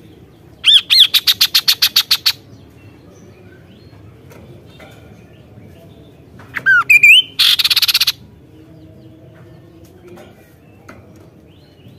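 Kaso-kaso bird singing: a fast string of about a dozen sharp, sweeping notes, then about halfway through two sliding whistled notes followed by a short harsh, buzzy rattle.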